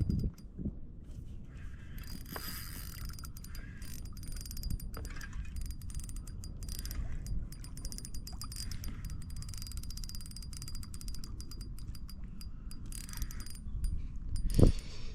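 Fishing reel clicking rapidly and steadily while a hooked fish is played in, over low wind and water noise.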